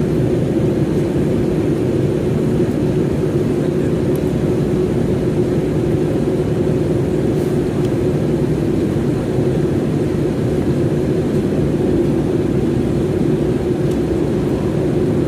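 Steady drone of an airliner heard inside the passenger cabin: engine and airflow noise with a constant low hum, unchanging throughout.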